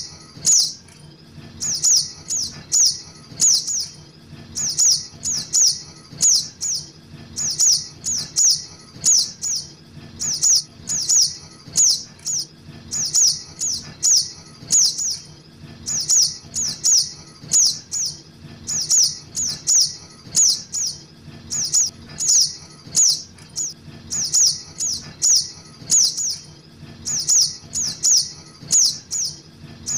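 Juvenile sogok ontong (spiderhunter) calls played as a bird lure: short, sharp high chips that sweep downward, repeated a couple of times a second in runs separated by brief pauses, over a faint low hum.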